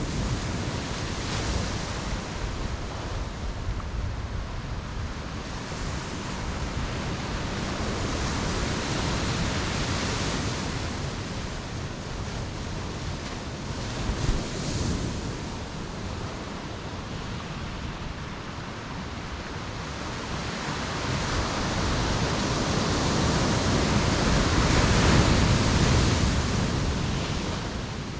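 Ocean surf washing onto the shore in slow swells. One wave builds over several seconds to the loudest surge about three-quarters of the way through, then falls back.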